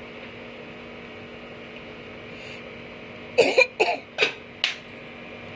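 A person coughs four times in quick succession, over a steady background hum.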